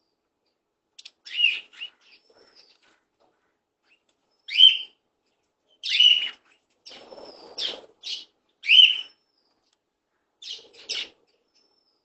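Small pet parrot giving short, sharp chirps, one every second or two, with a few softer calls in between.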